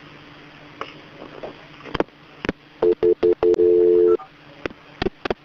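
Telephone line clicks, then three short beeps and about a second of steady two-note dial tone, followed by more clicks: a 911 call being transferred to fire rescue.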